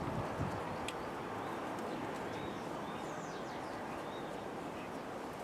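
Steady outdoor background hiss with a few faint bird chirps about halfway through, and a couple of small clicks near the start.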